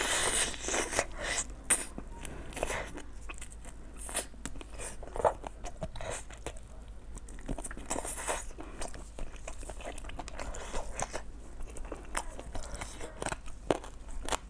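Close-miked eating: biting and chewing a glazed deboned chicken wing, an irregular run of wet clicks and small crunches, busiest in the first second or two.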